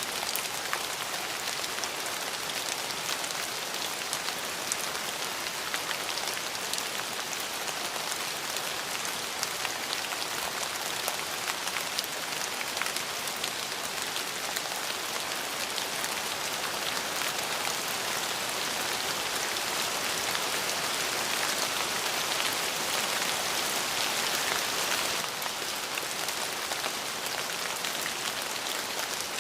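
Steady rain falling, an even hiss with many distinct drops pattering on a surface; it swells a little and eases back a few seconds before the end.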